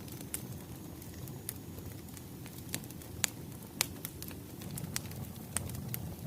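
Burning firewood crackling, with a steady low rumble of flames and irregular sharp pops.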